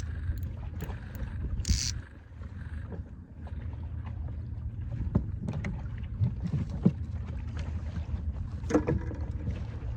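Steady low wind rumble on the microphone aboard a small inflatable boat at anchor. A short hiss comes about two seconds in, and scattered knocks and clicks of gear being handled fall in the second half.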